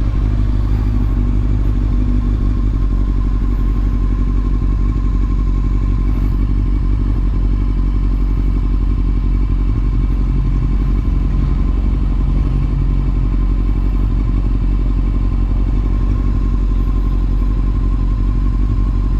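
Honda CBR motorcycle engine running at a steady low speed, its pitch holding even without revving.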